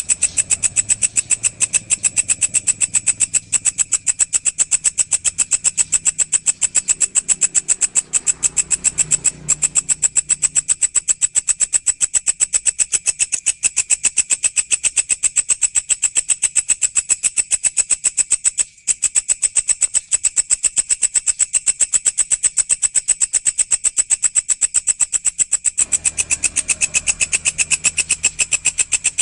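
A walang, a grasshopper-like insect, singing a continuous high, rapid buzzing trill of evenly spaced pulses, breaking off for an instant twice, used as a training recording for songbirds.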